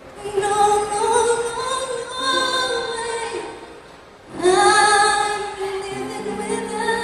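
A woman singing long held notes live, in two phrases with a short break about four seconds in.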